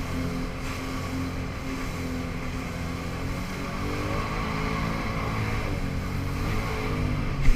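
Jet ski engine running steadily under way, its note rising and falling a little, over an even rush of noise, with one short thump near the end.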